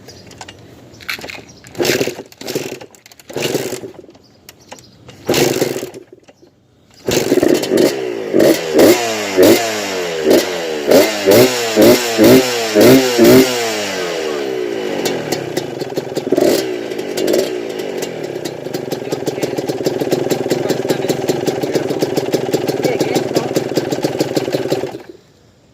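Suzuki RM125 125cc two-stroke single dirt bike engine giving a few short sputters, then catching about seven seconds in. It is blipped up and down about ten times, runs on more steadily with a fast crackle, and stops suddenly near the end.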